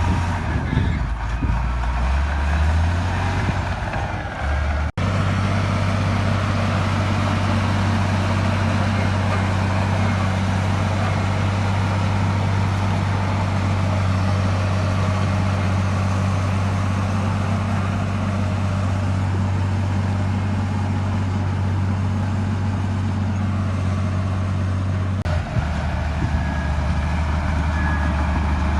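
Heavy diesel engine of earthmoving machinery running steadily with a deep, even drone. The sound breaks off abruptly about five seconds in and again near the end, then carries on at a slightly different pitch.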